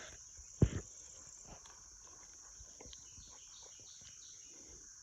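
Steady high-pitched drone of insects, with faint bird chirps and one low thump just over half a second in.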